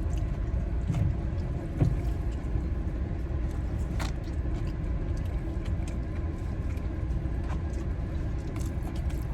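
Steady low rumble of a car's engine idling, heard from inside the cabin, with a few small clicks, one sharper about four seconds in.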